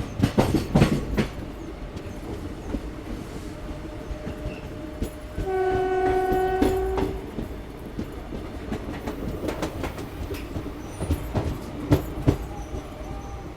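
Train running on track with steady rumble and wheels clattering over rail joints, with a few heavy clanks in the first second and again near the end. A single train horn blast of under two seconds sounds about midway.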